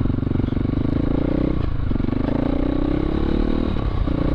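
Dirt bike engine under throttle, its pitch climbing and then dropping back twice, about one and a half seconds in and again near the end, as with gear shifts or throttle roll-offs.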